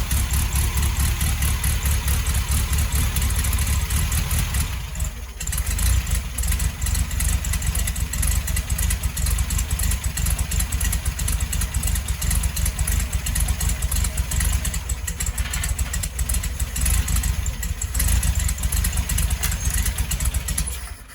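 Air-cooled VW Beetle flat-four engine running steadily on a Chinese-made replacement carburetor, with a brief dip about five seconds in. The engine is now drawing fuel after failing to start.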